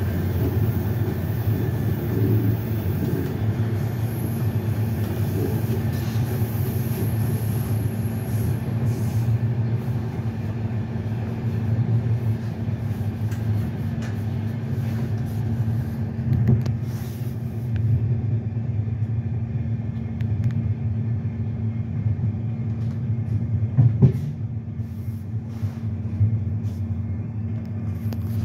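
Passenger train running at speed, heard from inside the rear of the last car: a steady low rumble of wheels on rails with a steady hum. A single louder knock comes about three-quarters of the way through.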